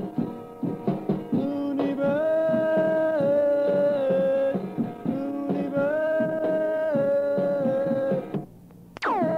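A rock duo's drums and electric guitar playing, with long held melody notes over a steady drum beat. The music breaks off briefly near the end, then comes back in with a fast downward swoop in pitch.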